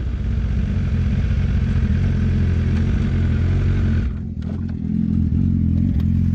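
BMW S1000RR's inline-four engine running at low, steady revs, heard from onboard. About four seconds in, the hiss of rolling drops away and the engine settles to an idle.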